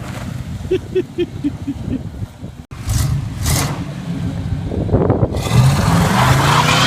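GMC pickup truck's engine revving as the truck slides in snow. It breaks off abruptly nearly three seconds in, two short hissing rushes follow, and the engine pitch climbs as the throttle opens near the end.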